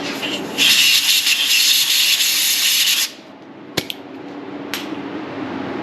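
Compressed-air blow gun hissing for about two and a half seconds as it blows debris out of a threaded bolt hole. It is followed by two light clicks.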